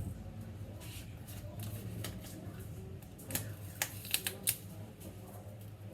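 A quick run of sharp clicks and taps, about five within a second and a half in the middle, over a low steady hum.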